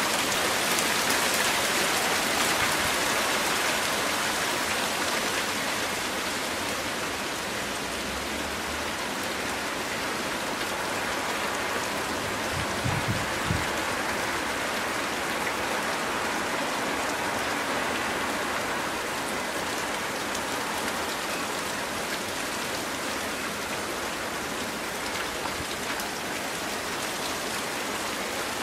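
Steady rain falling, an even hiss, a little heavier in the first few seconds. A couple of dull low bumps come about halfway through.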